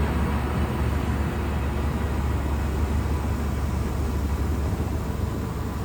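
Heavy Shantui bulldozer's diesel engine running steadily under a low, even rumble, with no distinct knocks or changes.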